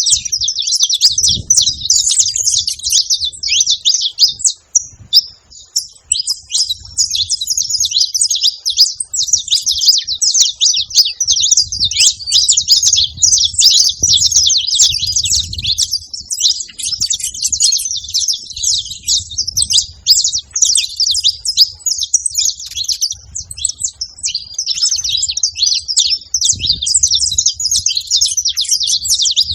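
A flock of saffron finches chirping and singing together: a dense, continuous chatter of many overlapping high calls, thinning briefly about five seconds in.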